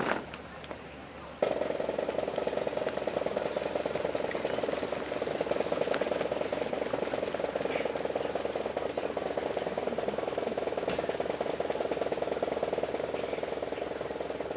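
A sustained drum roll starts suddenly about a second and a half in and holds steady, with a faint, evenly pulsing insect chirp behind it.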